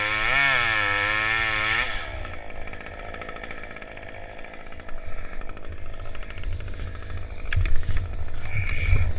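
Two-stroke chainsaw running at high revs with its pitch wavering as it cuts, then dropping off to a low idle about two seconds in. A few heavy thuds come near the end.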